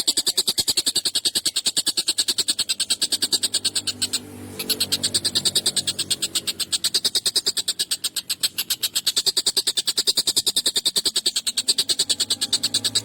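Tengkek buto kingfisher calling in a rapid, harsh, pulsed chatter of many notes a second, with a brief break about four seconds in. A lower droning tone sits underneath at times.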